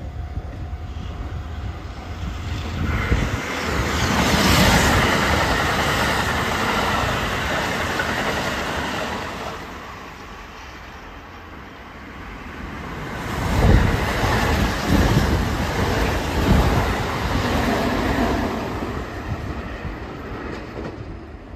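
Kintetsu electric trains running through the station, with rumbling wheels and rail-joint clatter in two loud swells. The second swell, with a sharp clack at its start, comes from the 21000 series Urban Liner Plus limited express passing on the far track.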